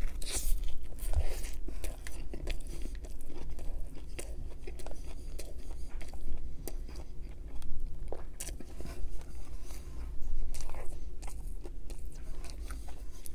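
Close-miked biting and chewing of a crispy chicken burger: irregular crackly crunches of the breaded patty and bun, with wet mouth sounds.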